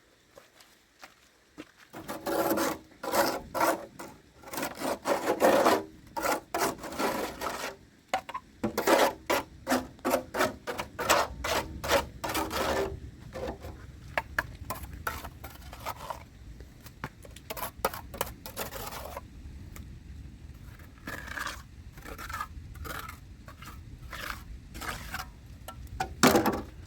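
Repeated rough scraping strokes, quick and irregular, thickest in the first half and thinning out later, with a low steady rumble underneath in the second half and one louder stroke near the end.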